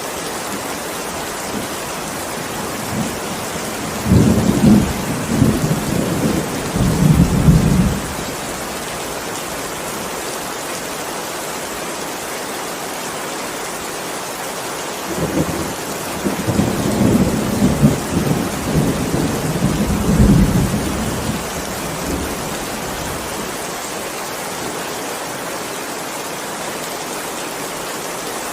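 Steady heavy rain, with two rolls of thunder rumbling over it, the first about four seconds in and lasting some four seconds, the second longer, from about halfway through.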